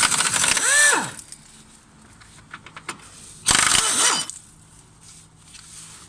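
Power wrench running in two short bursts to undo the central nut holding a car's stabilizer bar: a rapid clicking rattle lasting about a second, its motor whine falling as it winds down, then a second half-second burst about three and a half seconds in.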